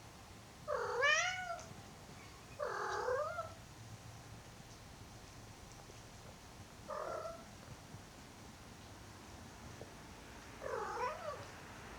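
A domestic cat meowing four times, a few seconds apart, each meow a short call that rises then falls in pitch; the first is the loudest.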